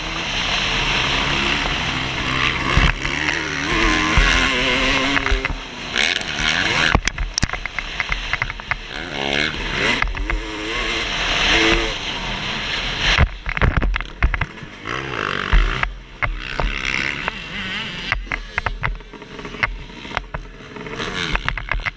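Suzuki RM250 two-stroke motocross bike engine revving up and down again and again as it is ridden hard, over steady wind noise with frequent sharp knocks.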